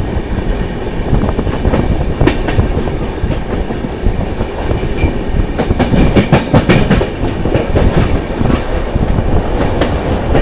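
Moving passenger train heard from an open coach doorway: a steady rush of wheel and wind noise, with wheels clattering over rail joints. There are clusters of sharp clacks about two seconds in and again around six to seven seconds in.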